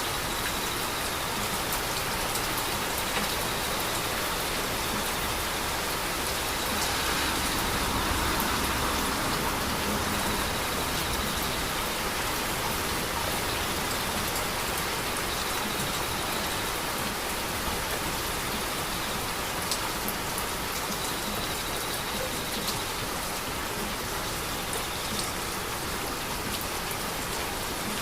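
Heavy rain falling steadily, a dense even hiss with scattered drop ticks. It swells slightly for a few seconds about a quarter of the way through.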